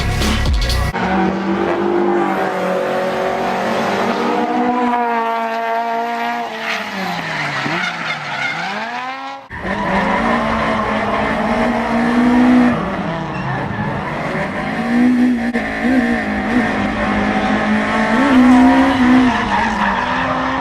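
Car engine revving up and down hard with tyres squealing and skidding, as in drifting; the engine pitch rises and falls repeatedly, and the sound cuts to another run about nine and a half seconds in.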